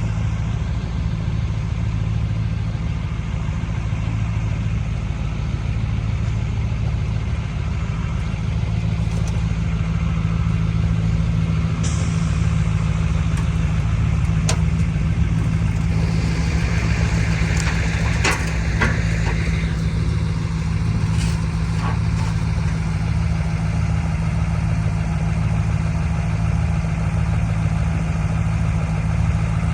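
Truck engine running steadily with an even, deep drone, with a few sharp clicks and a short hiss around the middle.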